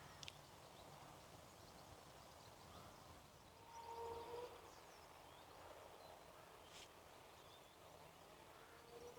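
Near silence: faint outdoor ambience, with one short faint pitched call about four seconds in and a couple of faint ticks.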